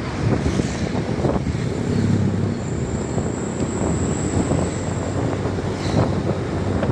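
Heavy truck loaded with sengon timber driving along the road, its diesel engine running under load with steady road noise.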